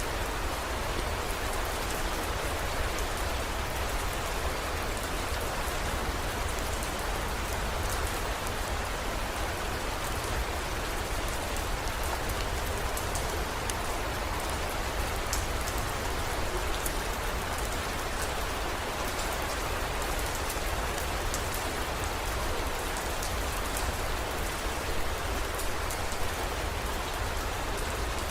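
Steady heavy rain, with scattered sharp drop ticks over an even hiss and a low steady rumble underneath.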